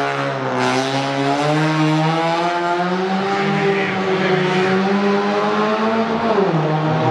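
Race car engine held at high revs, its note climbing slowly for about six seconds, then dropping sharply near the end.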